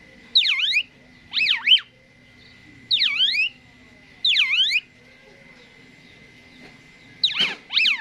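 Asian pied starling (jalak suren) calling: five loud whistled notes, each sweeping down and back up in pitch, about a second or so apart, with a longer pause before the last one.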